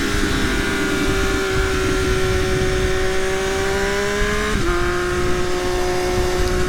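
Triumph Daytona Moto2 inline-three engine running under way with its muffler replaced by a link pipe. The engine note creeps up in pitch, then drops suddenly about four and a half seconds in, as on an upshift, and runs on steady.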